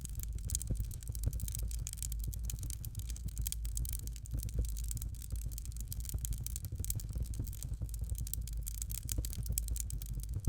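Fire crackling in a fireplace: a dense, irregular run of small crackles and pops over a steady low rumble.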